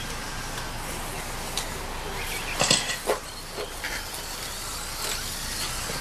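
Electric RC stock stadium trucks racing on a dirt track: a steady hiss of motors and tyres, with a cluster of sharp knocks a little past the middle, the loudest about two and a half seconds in.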